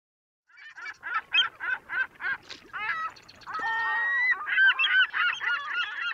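A flock of birds calling: a quick run of harsh, honking calls about four a second, a longer drawn-out call about three and a half seconds in, then many calls overlapping.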